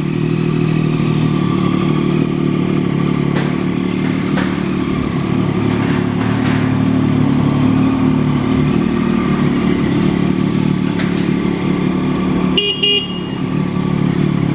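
2008 Triumph 675's three-cylinder engine idling steadily after start-up. A short double horn beep sounds near the end.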